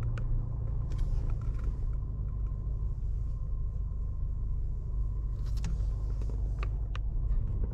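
Steady low rumble of a car's engine and road noise heard inside the cabin as it creeps along in slow traffic, with a few faint clicks.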